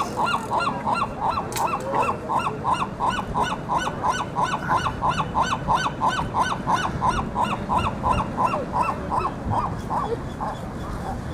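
Gulls squawking: a fast, unbroken string of short harsh calls, about four a second, as they crowd round a heron holding a piece of food.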